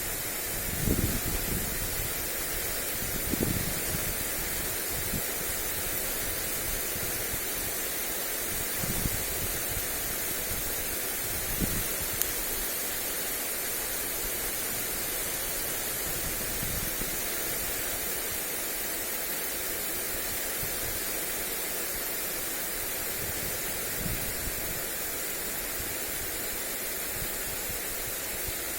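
Lawn sprinkler spraying water onto grass: a steady hiss of spray. Wind buffets the microphone in a few low gusts, mostly in the first dozen seconds and once more near the end.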